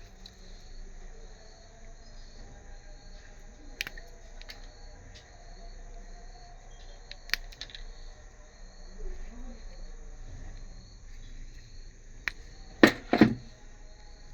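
A cricket chirping in steady, even pulses, about two a second. A few sharp clicks break in, then two louder knocks close together near the end.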